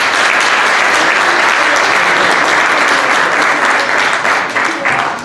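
Audience applauding in a hall, steady clapping that thins out near the end.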